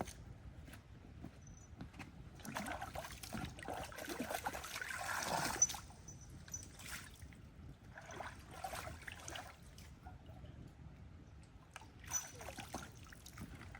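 Water sloshing and trickling in irregular bursts, loudest from about two and a half to five and a half seconds in, with shorter splashes later.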